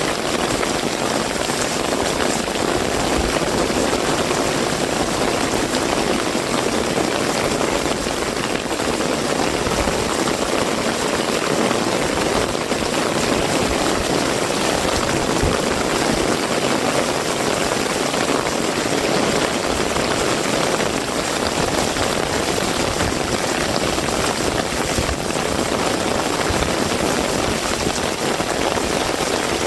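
Heavy rain falling steadily, with no breaks.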